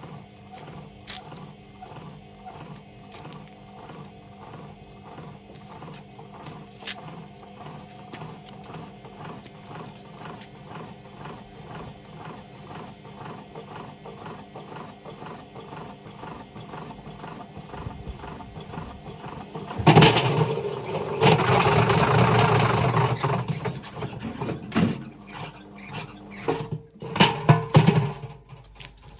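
Washing machine running with weights loose in the drum, knocking in a steady rhythm of about two to three a second. About two-thirds through it turns into a loud rattling, clattering noise for several seconds, followed by a few heavy bangs near the end.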